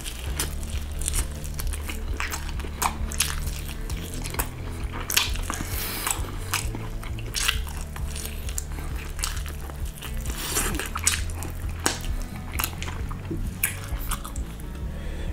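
Close-miked biting and chewing of a roast chicken drumstick: many short sharp clicks of teeth and mouth on meat and skin. Background music with a low bass line plays underneath.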